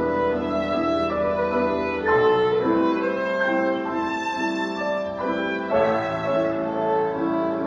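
A violin playing a slow melody in held notes over piano accompaniment.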